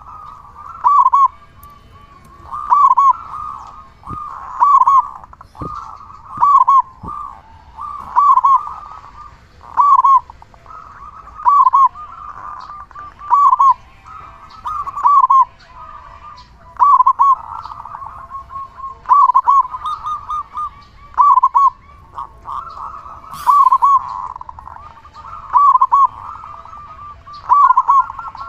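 Zebra dove (perkutut) cooing loudly, its deep-voiced coo phrase repeated about every two seconds.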